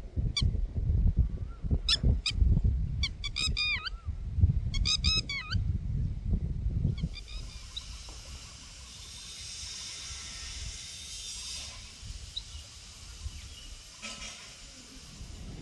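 Birds calling with harsh, honk-like calls in quick runs of several notes during the first six seconds, over a low rumble. A steady high hiss follows for several seconds.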